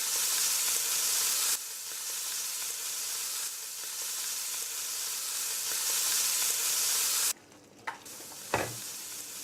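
Chicken pieces frying skin side down in hot oil, a steady dense sizzle. Near the end the sizzle cuts off suddenly and two short knocks follow.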